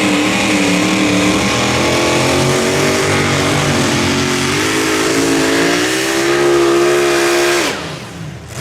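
Pulling vehicle's engine running hard at high revs, its pitch wavering and then climbing. About seven and a half seconds in it cuts off suddenly and winds down.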